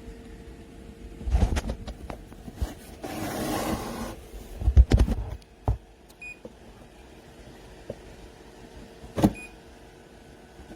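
A few knocks and clunks, a second-long rush of noise, and two short high beeps, over a faint steady hum.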